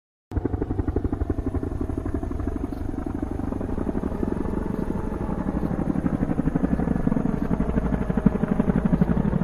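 Helicopter rotor chopping steadily in fast, even low beats, about eight a second.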